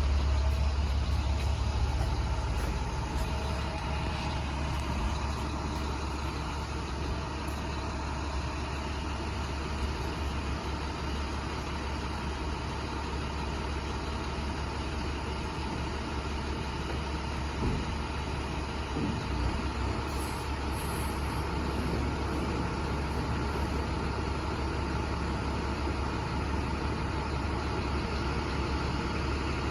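Truck engine idling steadily, a low even hum with a few faint knocks.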